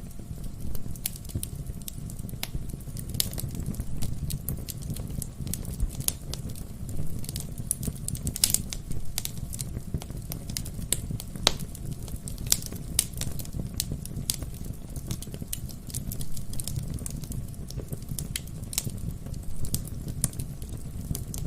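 Wood fire burning in a fireplace, with many irregular sharp crackles and pops from the burning logs over a steady low rumble of the flames.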